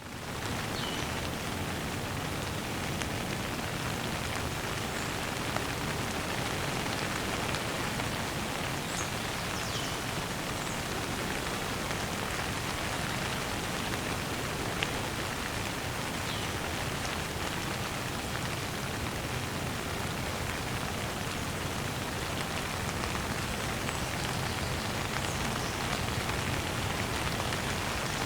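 Steady rain shower falling on surfaces, an even hiss of drops after a quick fade-in at the start.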